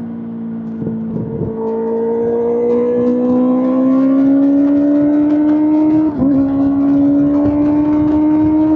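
Kawasaki ZX-6R inline-four engine running through an SC-Project SC-1R exhaust, its note climbing slowly in pitch under throttle. About six seconds in there is a brief dip, then the note holds steady at the higher pitch.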